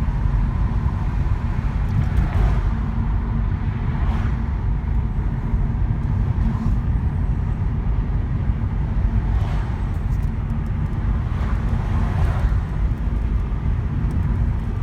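Steady low rumble of a car driving: engine and road noise with no distinct events.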